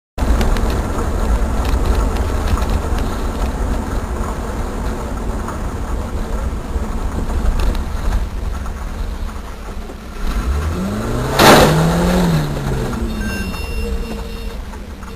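Road vehicle running, a steady low rumble of engine and road noise. About two-thirds of the way in, a loud rush with an engine note that rises and then falls as a vehicle goes by close, dying away afterwards.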